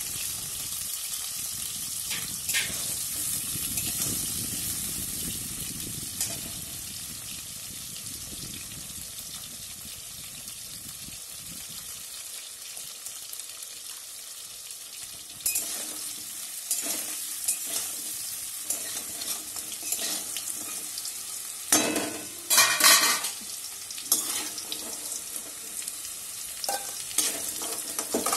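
Pieces of raw green banana sizzling steadily as they fry in hot oil in a metal karai. A metal spatula scrapes and knocks against the pan now and then, loudest a little past two-thirds of the way through.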